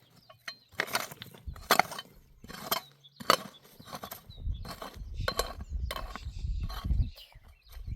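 A series of sharp knocks, about ten, irregularly spaced roughly one every half to one second, typical of striking or chopping during construction work; a low rumble joins in from about halfway.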